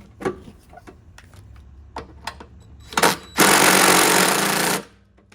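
A power tool runs in one loud burst of about a second and a half, after a few light knocks and clicks.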